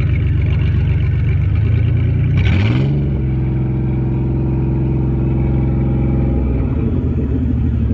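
Modified competition truck's engine revving. About two and a half seconds in it revs up sharply with a brief clattering burst, holds the higher revs steadily, then drops back about two-thirds of the way through.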